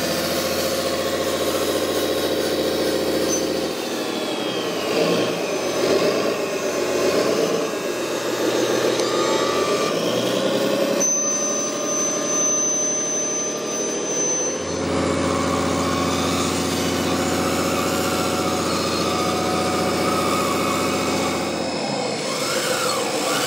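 A motor or engine running, its pitch dipping and rising for several seconds in the middle before settling back to a steady note.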